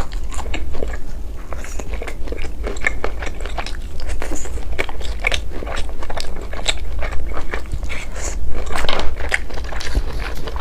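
Close-miked chewing and biting of grilled meat skewers: a dense run of small crunchy, wet clicks, over a steady low hum.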